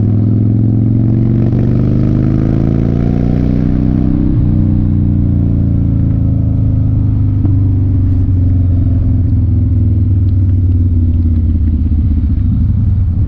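1993 Harley-Davidson FXR's Evolution V-twin engine pulling the bike along the road. Its pitch rises for about four seconds, then drops suddenly at an upshift and runs on steady.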